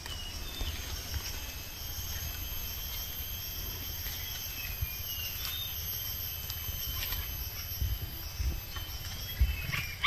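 Faint, short, scattered calls of a parent bird near its nest, which is angry at the intruder, over a low rumble on the microphone.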